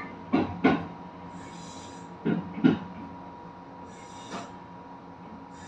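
Kintetsu limited express train running, its wheels knocking over rail joints in two quick double knocks about two seconds apart, over a steady running hum with short bursts of hiss.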